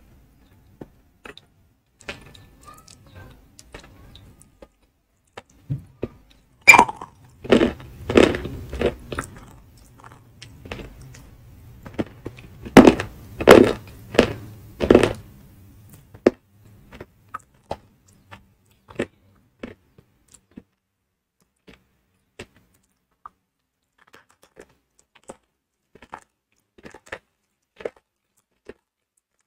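Close-miked biting and chewing of ayilo, a baked edible clay chalk: loud crisp crunches come in two runs, about a quarter of the way in and again around the middle, with scattered small clicks and crackles as it is chewed down.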